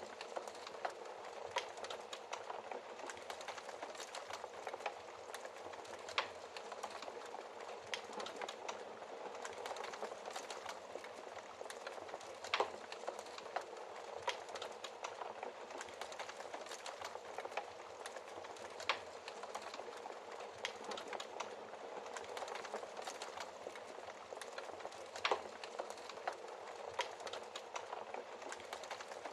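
Wood fire in a fireplace crackling steadily, with a sharper pop about every six seconds.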